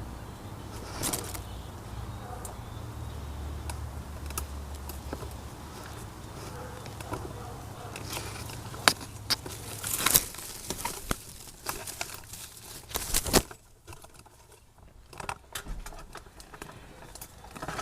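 Close handling noise: scattered sharp clicks, knocks and rustles, thickest in the middle of the stretch, over a low rumble in the first half, as a camera and tripod are moved about among tree branches.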